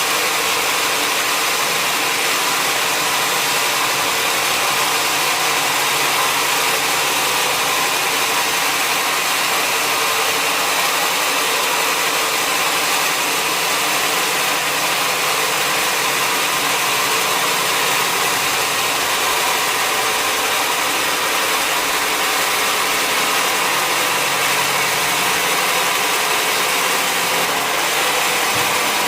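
Sawmill machinery running steadily: a dense, even mechanical noise with a steady hum that holds unchanged throughout.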